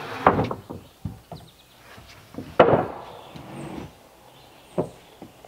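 Wooden knocks as heavy decking boards are laid down and shifted into place: three separate clunks, the loudest about halfway through.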